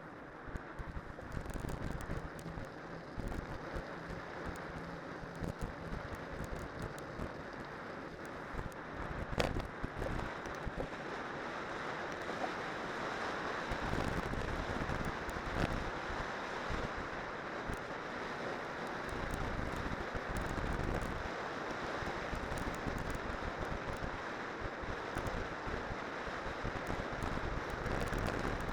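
Wind rumbling over the microphone of a cyclocross bike riding downhill on spiked tyres, over a steady rushing noise, with a sharp click about nine and a half seconds in.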